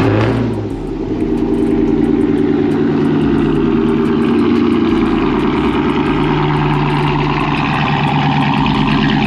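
Cammed, catless, straight-piped Chrysler 300C Hemi V8 starting up with a sudden burst. It settles over the first couple of seconds into a loud, steady idle.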